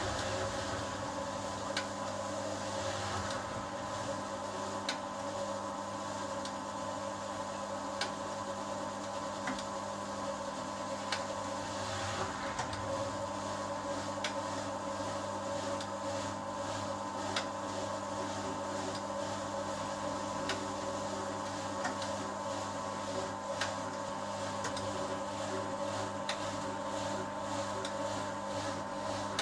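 1980 HUWA Automatic Standard 4 washing machine running steadily mid-program, a constant motor hum with a light click about every second and a half.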